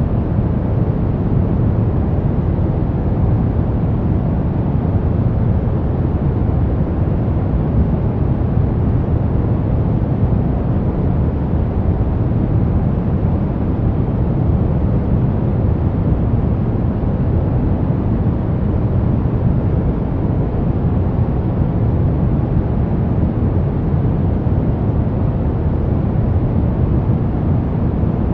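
Brown noise: a steady, deep rumbling hiss, strongest in the bass and dull in the treble, with no change or events.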